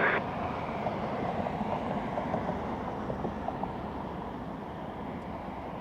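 Distant jet airliner engines: a steady rumble that slowly fades.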